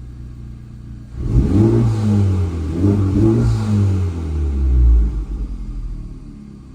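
10th-gen Honda Civic's turbocharged four-cylinder engine revved from idle about three times, each rev rising and falling, then settling back to idle. The car is still on its stock rear engine mount.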